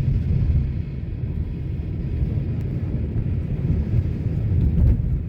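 Loud, continuous low rumble that fluctuates without any distinct knocks or tones.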